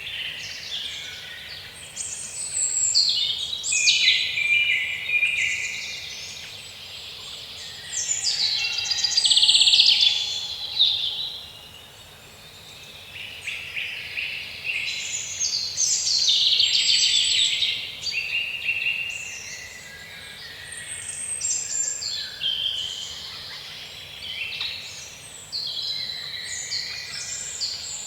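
Songbirds singing: a dense, high-pitched chorus of chirps and trills that swells and fades every few seconds.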